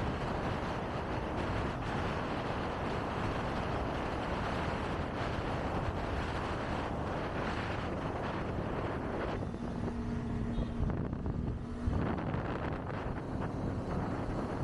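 Wind buffeting the microphone while riding a Kawasaki Ninja ZX-25R, its inline-four engine running steadily underneath. Nearly ten seconds in, the wind eases for about two seconds and the engine's steady note comes through more clearly, then the wind noise returns.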